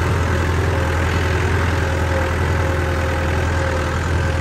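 Four-wheel-drive vehicle engine running with a steady, even low drone.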